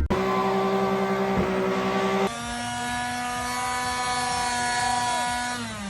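Car engine held at high revs during a burnout. The pitch jumps higher about two seconds in and holds steady, then falls away near the end as the revs drop.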